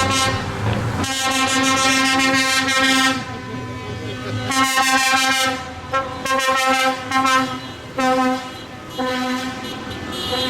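A loud vehicle air horn sounding in a series of long blasts, five in all, each held at one steady pitch.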